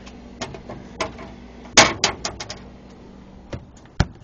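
A GE side-by-side refrigerator being handled: a run of clicks and knocks from its doors and fittings, the loudest cluster a little under two seconds in, and a single deep thump near the end, like a door shutting.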